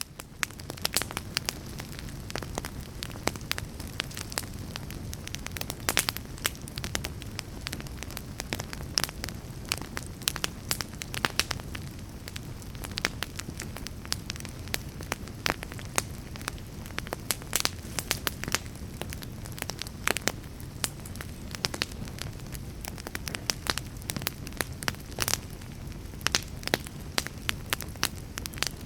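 Fire crackling: a steady low rumble with frequent irregular sharp pops and snaps.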